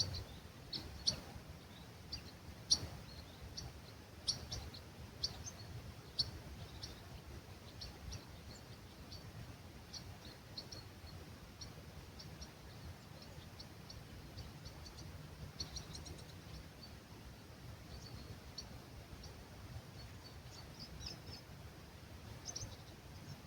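Small birds calling with short, high chirps, many in quick succession early on and in scattered clusters later, over a steady low rumble of breeze.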